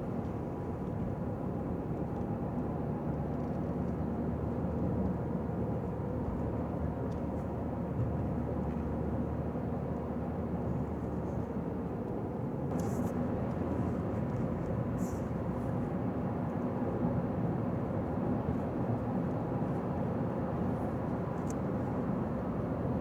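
Car driving through town: steady road and engine noise, a little louder from about halfway through, with a few faint clicks.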